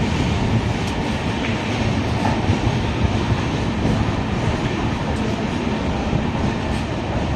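Passenger train rolling along, heard from inside a coach at an open window: a steady rumble of wheels on rails with a few faint clacks.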